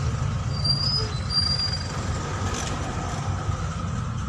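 Car engine and road noise heard from inside the cabin as the car drives on, a steady low rumble with a faint steady whine above it.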